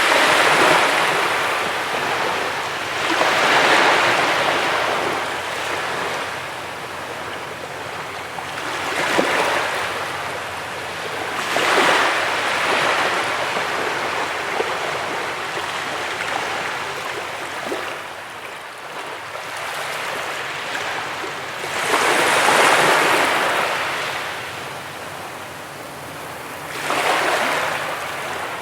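Sea waves breaking on a beach and washing back, each one a rushing swell that rises and fades, about six in all at uneven intervals of a few seconds, with a longer lull in the middle.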